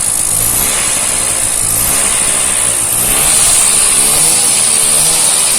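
Scooter engine running, its speed rising and falling a little as it is revved near the middle.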